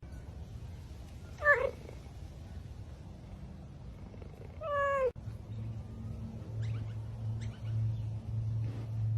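A cat meowing twice: a short, loud call about a second and a half in, then a longer one that bends up in pitch about five seconds in, over a steady low hum.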